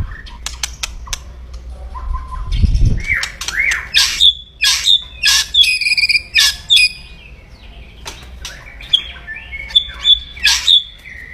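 White-rumped shama (murai batu) giving its harsh 'kretekan' call: irregular sharp clicks and chattering notes mixed with short whistled chirps and squawks, loudest in two bursts in the middle and near the end. It is an agitated, aggressive call type, the kind used to rouse a rival shama.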